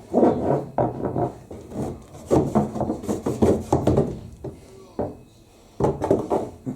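A thin rod scraping and rubbing inside a lint-choked tumble dryer's air duct, pushing caked fluff loose in irregular strokes with occasional knocks. The scraping eases off for a moment a little after halfway, then starts again.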